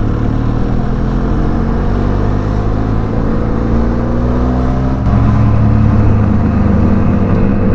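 Benelli TRK 502X's parallel-twin engine pulling the motorcycle up a climb, revs rising slowly, with a step up in throttle and loudness about five seconds in.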